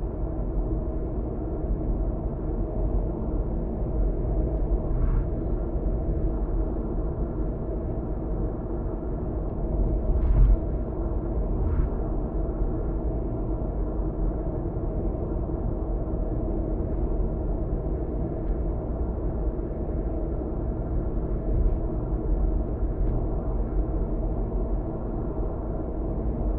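Road and engine noise inside a moving car's cabin: a steady low rumble. There are a few short knocks, the loudest about ten seconds in and another a second and a half later.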